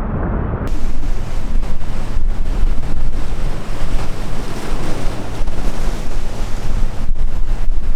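Wind buffeting the microphone over the rush of sea waves, a loud, steady roar. Less than a second in it cuts in abruptly and replaces a duller, muffled rumble.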